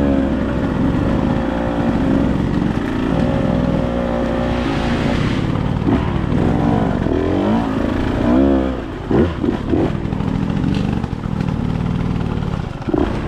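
Dirt bike engine running under changing throttle as it is ridden, its pitch rising and falling, with several quick revs a little past the middle and again near the end.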